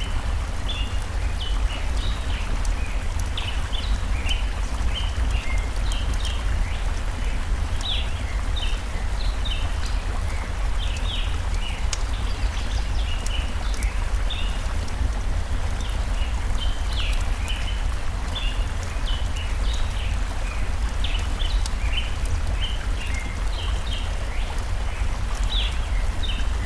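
Steady flowing-stream water noise with small birds chirping short notes over and over, and faint fire crackles now and then.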